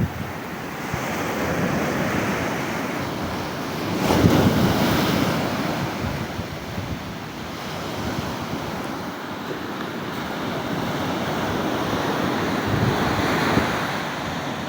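Stormy sea surf: waves surging and breaking, with wind buffeting the microphone. The surf swells loudest about four seconds in and again near the end.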